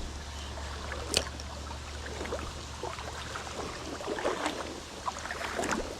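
Creek water running with wind rumbling on the microphone, and scattered small ticks and splashes; a sharp click about a second in.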